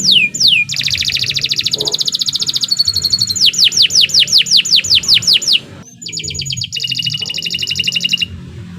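Domestic canary singing a long, loud song built of repeated phrases: runs of quick, steeply falling whistled notes, about four a second, alternating with rapid buzzing trills at different pitches. There is a brief pause a little past the middle, and the song stops shortly before the end.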